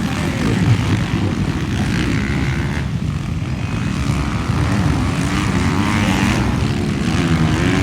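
Motocross bikes racing, several engines revving up and down as they work around the track.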